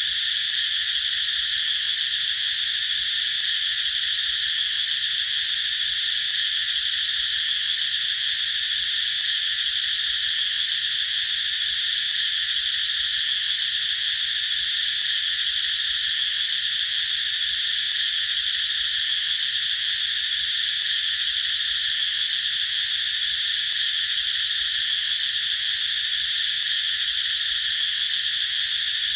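Cicadas singing in a steady, continuous high-pitched buzz that doesn't rise or fall.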